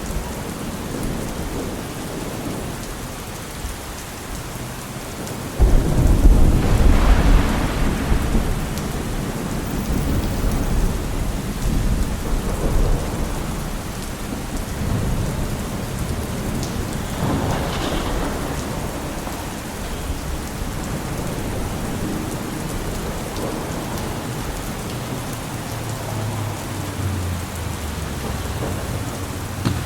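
Steady rain falling. About six seconds in a loud, deep rumble starts suddenly and dies away over a few seconds, and a second, hissier swell rises and fades near the middle.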